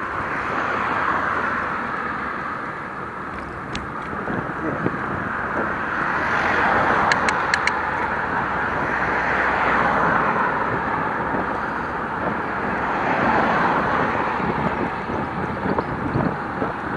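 Town road traffic, cars passing in swells that grow and fade, with a quick run of sharp clicks about seven seconds in.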